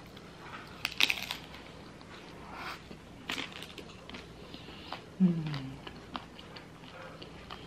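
Close-up chewing of a crunchy deep-fried taco, with crisp crackling bites in the first few seconds. A short low hum of voice falls in pitch about five seconds in.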